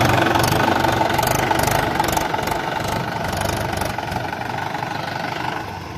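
Diesel engine of heavy farm or construction machinery running with a steady knocking beat, growing fainter over the last second or two.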